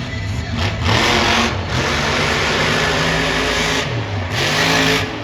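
Monster truck's supercharged alcohol-burning engine revving hard in three full-throttle blasts, the longest about two seconds, its pitch rising with each blast and falling back between them.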